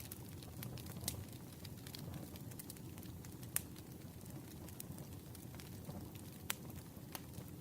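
Campfire burning with a steady low rumble and irregular sharp crackles and pops, the loudest about three and a half and six and a half seconds in.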